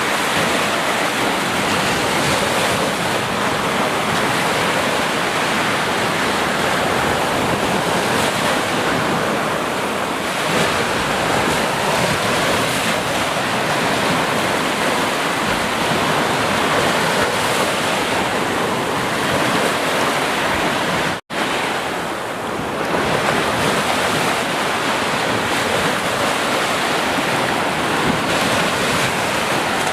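Sea surf washing continuously: a steady rush with slow swells and ebbs in level. It cuts out for an instant about two-thirds of the way through.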